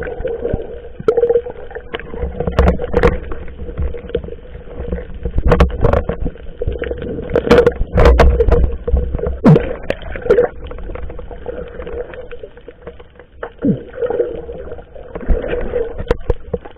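Small wooden fishing boat at sea: irregular knocks and splashes over a steady hum and low rumble.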